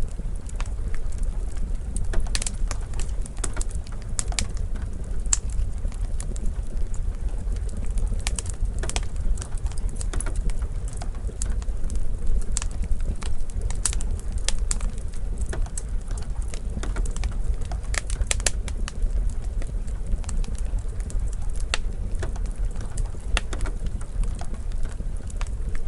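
Wood fire crackling in a fireplace: frequent, irregular sharp pops and snaps over a steady low rumble of burning.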